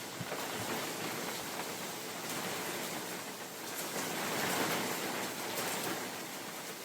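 Steady rain falling on a forest, its hiss swelling and easing as gusts of wind pass through the trees, loudest about four to five seconds in.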